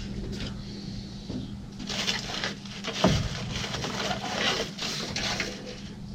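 Old paper rustling and crinkling as it is handled and leafed through, with one soft thump about three seconds in, over a steady low hum.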